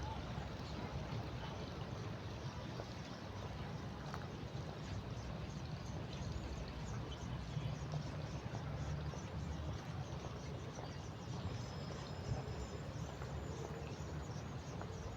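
Steady outdoor ambience: a low, even rumbling hiss, with faint thin high calls from about eleven to fourteen seconds in.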